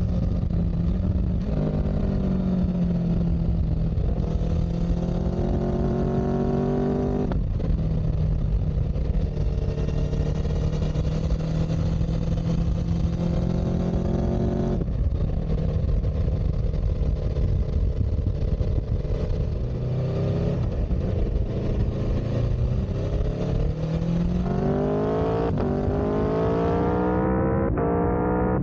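A motor vehicle engine pulling through the gears. Its pitch climbs, then drops suddenly at each shift: about one and a half, seven and a half and fifteen seconds in. It then holds lower for a while before climbing steeply again near the end, over a steady low rumble.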